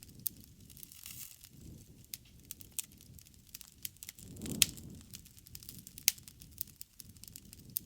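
Wood bonfire crackling: irregular sharp pops and snaps of burning wood over the soft low rush of the flames, with one louder pop about four and a half seconds in.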